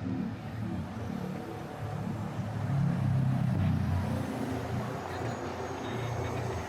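Street traffic passing on a city avenue, a low steady rumble of engines and tyres that swells about three seconds in as a vehicle goes by.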